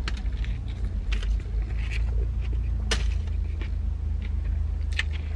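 Close-up chewing of a sub with crunchy tortilla-chip-coated chicken: a few sharp crunches and mouth clicks, the loudest about three seconds in, over a steady low rumble.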